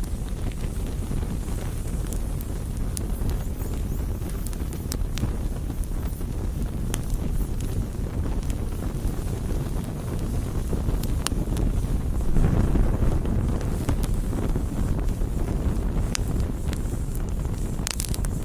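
Campfire burning with a low rumbling roar and scattered sharp crackles and pops from the wood; the roar swells briefly about twelve seconds in. A wind-like rush is mixed in, which may be wind on the microphone.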